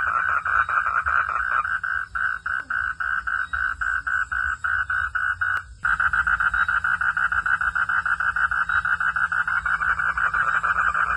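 Frogs calling in a dense, rapid pulsing chorus, about five or six notes a second. A sharp click and a brief drop-out come about halfway through, and then the chorus carries on.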